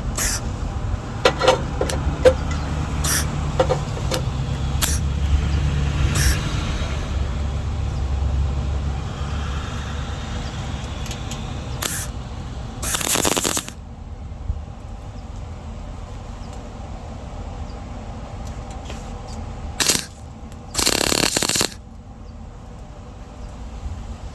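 Two short bursts of electric tack welding, each under a second, about eight seconds apart, fixing a steel patch panel into a car battery tray. Before them come scattered clicks of metal being handled over a low hum.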